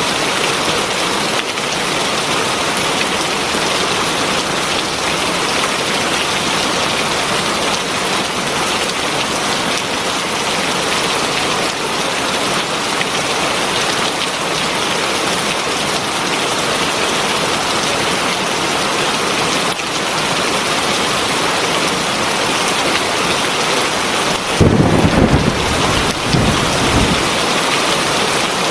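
Heavy rain falling with a steady hiss. Near the end a low rumble of thunder rises for a couple of seconds.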